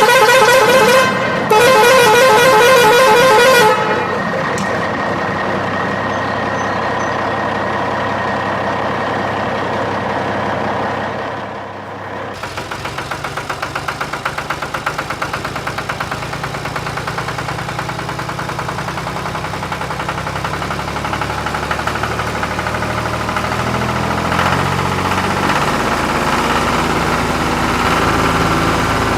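A vehicle horn sounds twice with a wavering tone, then a vehicle engine runs, settling into an even pulsing rhythm about twelve seconds in.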